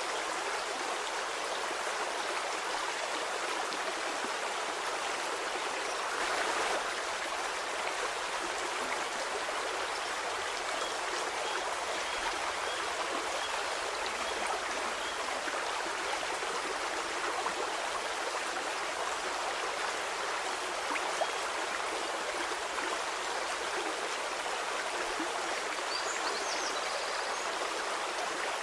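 Stream water flowing steadily, a continuous hissing rush of splashing water with little deep rumble, swelling slightly for a moment about six seconds in.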